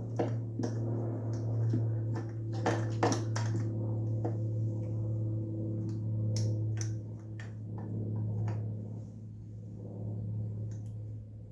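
Scattered light clicks and taps from handling the piston, rings and cylinder of a two-stroke top end, over a steady low hum.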